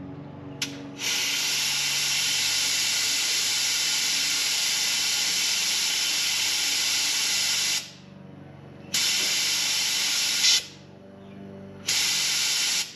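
Compressed air hissing from a bedliner spray gun with its trigger held open: one long blast of about seven seconds, then two shorter bursts. The air is blown through while the line pressure is adjusted to about 50 psi, before the liner bottle is fitted.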